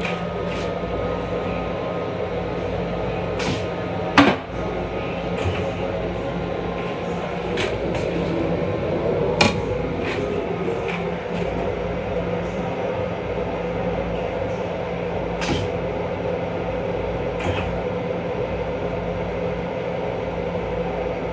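Steady hum and rumble of an M7 electric railcar, heard from inside its small restroom, with scattered light rattles and clicks, a sharp knock about four seconds in and another near nine and a half seconds.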